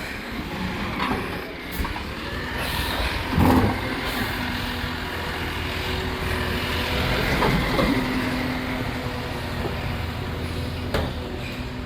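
Recycling truck's diesel engine running steadily, with a loud knock about three and a half seconds in, a smaller one near eight seconds, and a steady hum setting in after it.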